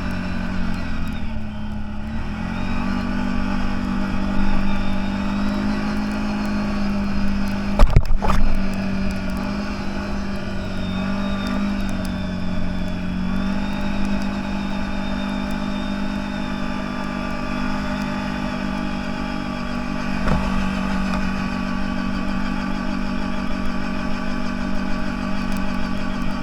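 CFMOTO 1000 off-road vehicle's V-twin engine running steadily while driving, its pitch dipping and recovering twice. A loud clunk with some clatter comes about eight seconds in.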